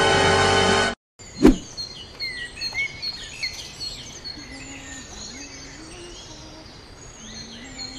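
Theme music that cuts off about a second in, then a single sharp knock, then birds chirping and tweeting over outdoor ambience.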